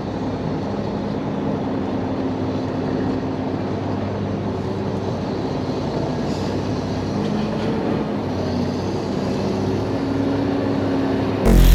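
A heavy vehicle running: a steady rumbling drone with faint tones that drift slightly in pitch.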